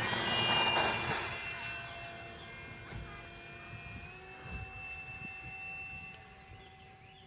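Electric motor and propeller of an RC Edge 540 aerobatic plane running at high throttle with a steady whine that grows fainter. Its pitch steps up slightly about four seconds in.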